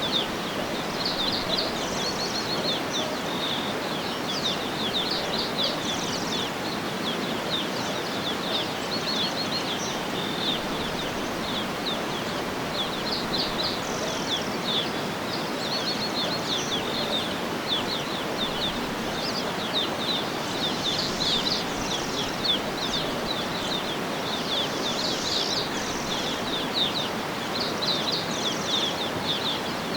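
Birds chirping and twittering over a steady background hiss of outdoor noise, the short high chirps coming thick and fast throughout.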